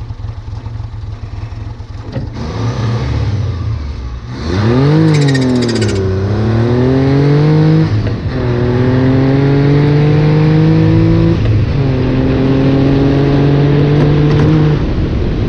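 Dune buggy engine accelerating hard through the gears: after a few seconds of low running it revs up, the pitch climbing steadily, dropping at each gear shift about 8 and 11.5 seconds in, then falls away near the end as the throttle is lifted. A brief rattle about five seconds in.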